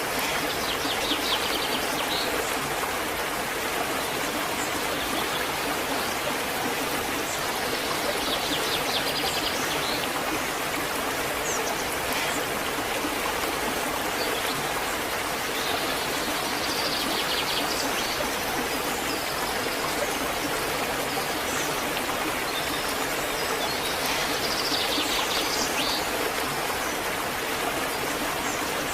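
Waterfall, a steady rush of falling and splashing water.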